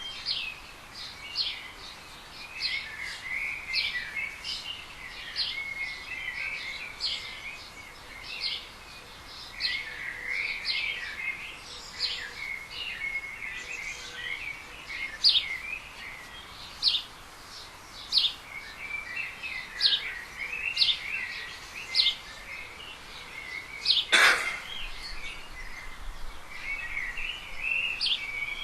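Small birds chirping and twittering, with many short, sharp chirps repeated over and over. A single sharp click or knock sounds once near the end.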